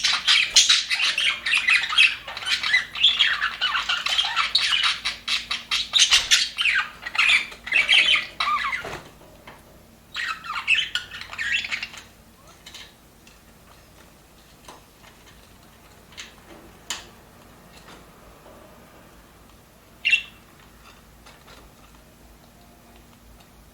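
Pet budgerigars chattering and squawking in a dense flock warble for about nine seconds, then a shorter burst. After that there are only scattered chirps and clicks, with one sharp call about twenty seconds in.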